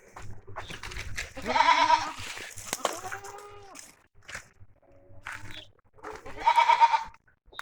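Goats bleating: two loud, wavering bleats, one about a second and a half in and one near the end, with fainter calls and small knocks between.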